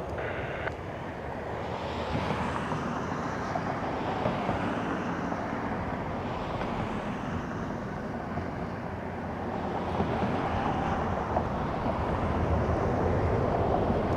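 Jet airliner engine noise: a steady rumble that grows louder near the end.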